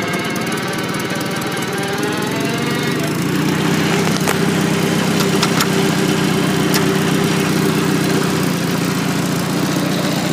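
Farmall Super A's four-cylinder gasoline engine running. Its pitch shifts about two to three seconds in, then it settles into a steady, slightly louder note, with a few sharp clicks over it.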